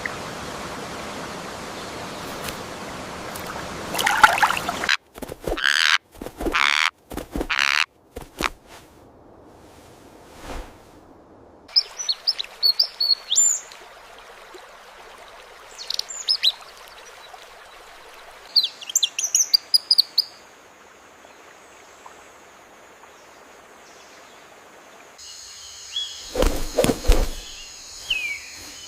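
AI-generated birdsong: clusters of short, high chirps and calls. They follow an even hiss at the start and a run of sharp, croak-like bursts a few seconds in, and a further burst of calls comes near the end.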